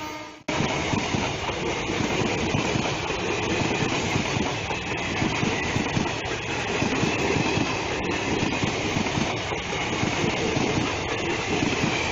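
Passenger train coaches passing close by at speed: the steady noise of steel wheels running on the rails, with a rapid clickety-clack over the rail joints. The sound cuts in after a brief gap near the start.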